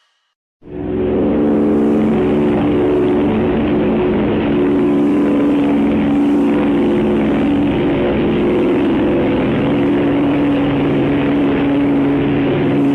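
Propeller airplane engine sound effect: a steady drone that starts abruptly about half a second in and holds level.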